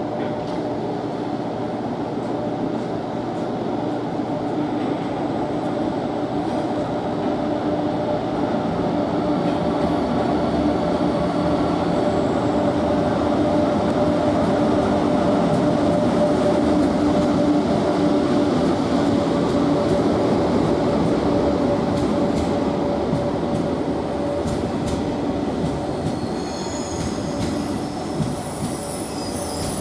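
KTX high-speed electric train rolling slowly past through a station, a steady rumble with a continuous hum. High-pitched wheel squeal comes in near the end.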